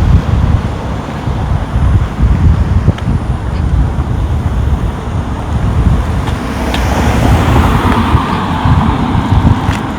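Road traffic heard while walking along a street, with gusty wind buffeting the microphone as a low rumble; a vehicle passes about seven seconds in, its noise swelling and fading.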